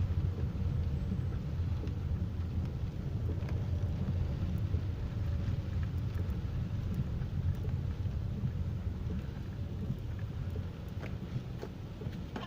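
Rainstorm: a steady low rumbling noise of wind and rain, with faint scattered ticks of drops.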